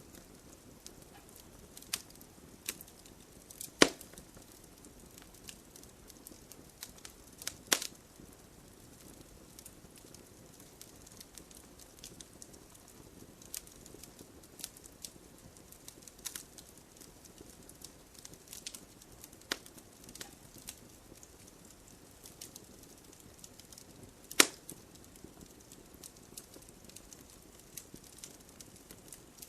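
Wood fire crackling: a soft steady hiss with scattered sharp pops and snaps at irregular moments, three of them much louder (about 4, 8 and 24 seconds in).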